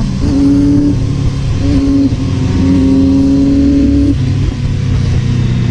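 Motorcycle on the move: its engine holds a steady pitch with a few short breaks, over heavy low wind rumble.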